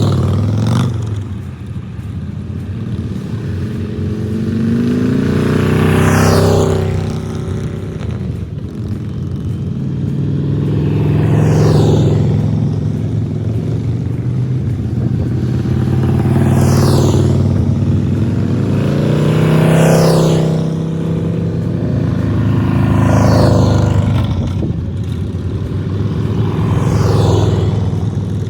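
Harley-Davidson Breakout's V-twin engine running on the road, its pitch rising and easing off several times.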